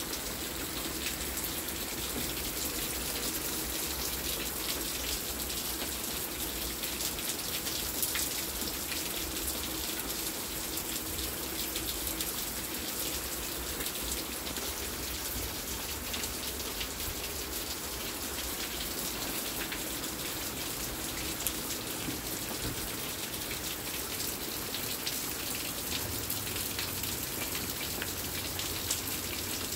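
Steady rain falling on a wet wooden deck and puddled pavement: an even hiss with many small drop ticks.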